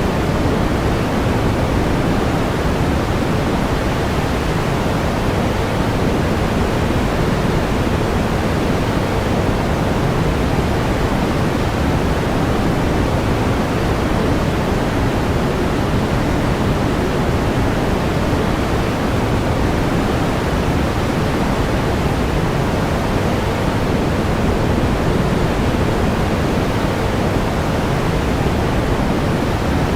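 Steady pink noise: an even, unchanging hiss, fuller in the low end than in the highs.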